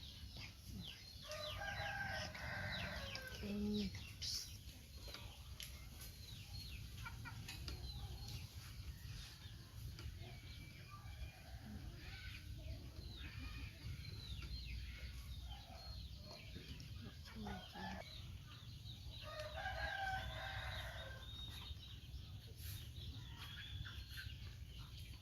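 A rooster crowing twice, each crow about two seconds long, the first about a second in and the second about nineteen seconds in, with short high chirps and clucks in between over a steady low hum.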